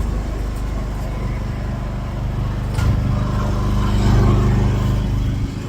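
Steady, loud low drone of an engine running, with a brief click about three seconds in.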